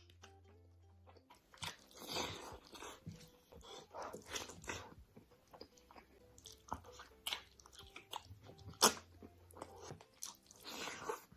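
Close-miked crunchy bites and chewing of crisp food, a series of crackling crunches coming in clusters, the sharpest one about nine seconds in.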